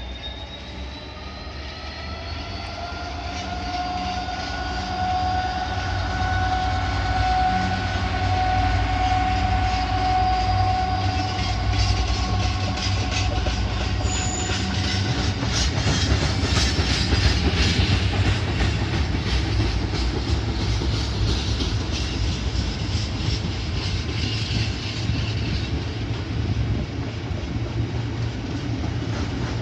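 Class 66 diesel locomotive hauling an oil train past. Its engine whine grows louder over the first dozen seconds as it approaches, then the tank wagons' wheels clatter steadily over the rail joints as they roll by.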